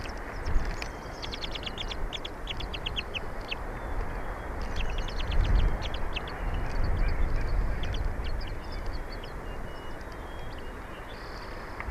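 Bald eagles calling: rapid runs of short, high chirping notes, about six to eight a second, in two bursts, with a few fainter notes later. A steady low rushing noise lies underneath throughout.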